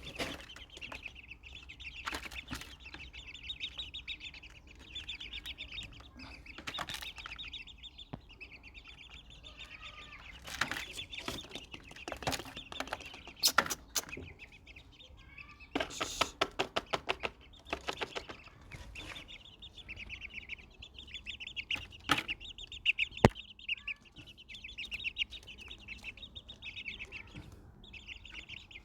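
Birds twittering and chattering continuously in a dense, high, rapid pattern. Sharp clicks and taps are scattered through it, with a quick run of repeated pulses around the middle.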